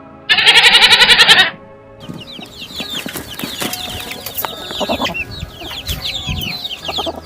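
A goat bleats once, loudly and with a quavering pulse, for about a second. Then many high, short cheeps overlap with lower clucks for the rest of the clip: a group of chicks and hens calling.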